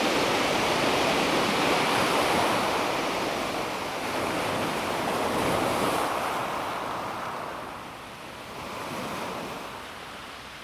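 Calm sea waves washing onto a pebble beach: a loud rush of surf for about six seconds that then dies away as the wave draws back.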